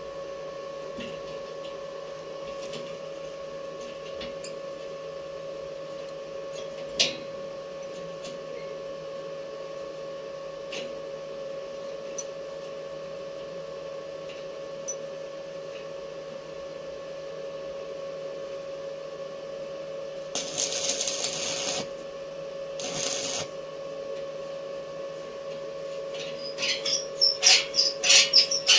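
Steady electrical hum from welding equipment, broken by two short bursts of arc-welding crackle, the first about two-thirds of the way in. Near the end comes a quick run of metal clinks and taps.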